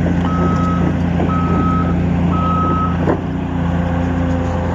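Backup alarm on a diesel machine beeping about once a second, three times, then stopping about three seconds in with a single knock, while the engine keeps running steadily underneath.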